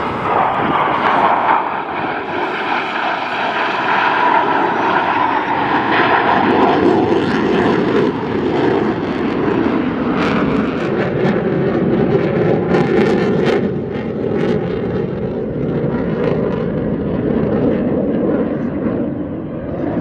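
Jet noise from US Navy Blue Angels F/A-18 Super Hornets flying overhead, a loud steady jet roar. A whine near 1 kHz slides slightly lower over the first several seconds, and there is a spell of crackle around the middle.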